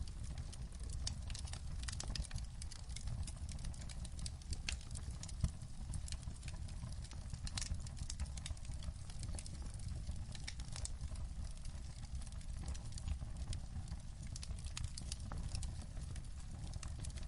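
Wood fire crackling in a fireplace: many short, irregular pops and snaps over a steady low rumble of the burning fire.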